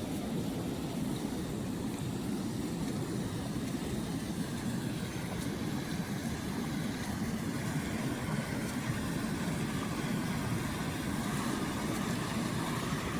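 Floodwater rushing steadily, a low even rushing noise. A faint thin hum joins in about halfway through.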